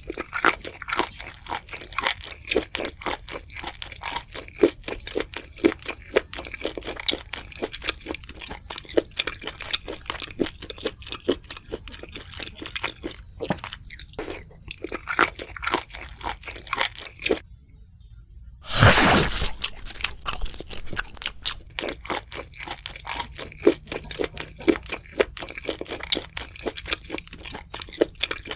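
Close-miked crunching and chewing of crispy fried food, a dense run of irregular crackles. About two-thirds of the way through, the crunching briefly stops, then a short loud burst of noise cuts in before the chewing resumes.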